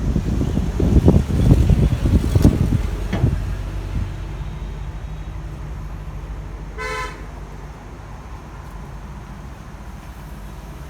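Diesel engine of a wheeled excavator running, with heavy rumbling and knocking for the first few seconds, then settling to a steady low hum. A vehicle horn gives one short toot about seven seconds in.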